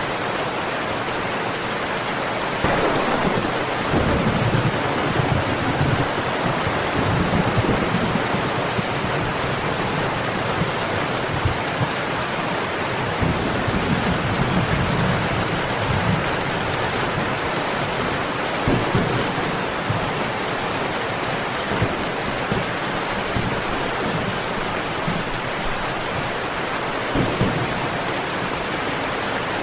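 Steady rain with thunder: a long low rumble starts about three seconds in and rolls on for roughly twelve seconds before fading back under the rain.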